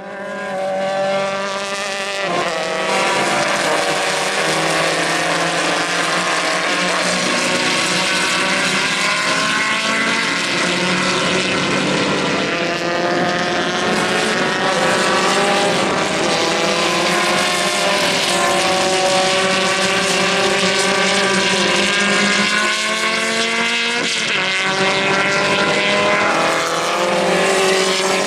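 Ariel Atom race car engine running hard on track, its pitch climbing and dropping again and again as it revs up, shifts and comes off the throttle.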